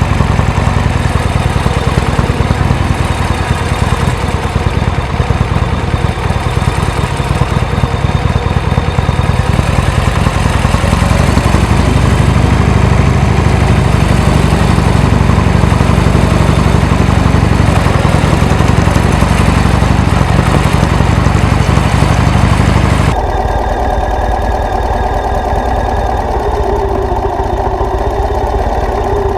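A vehicle engine running steadily and loudly, with a deep low rumble; about 23 seconds in the sound changes abruptly and the deep rumble drops away.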